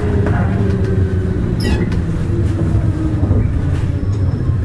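Running sound of a Nishitetsu 5000 series electric train heard from inside the car: a steady low rumble of motors and wheels on rail, with a faint motor tone slowly falling in pitch. A brief high squeak about one and a half seconds in.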